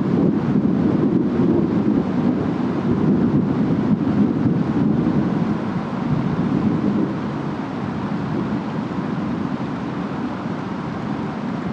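Distant storm ambience: a steady, low rush of wind and rain, somewhat louder in the first half and easing a little about seven seconds in.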